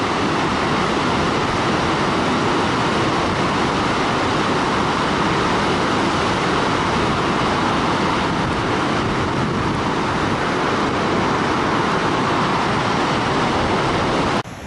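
Steady rush of a large waterfall, a loud even roar of falling water that cuts off abruptly near the end.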